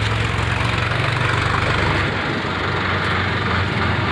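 A motor vehicle's engine idling steadily, with a low rumble under broad noise; the deepest part of the rumble drops away about two seconds in.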